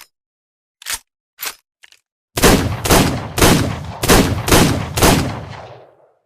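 Revolver sound effect: a few light clicks, then six gunshots fired about half a second apart, emptying the cylinder, the echo fading after the last shot.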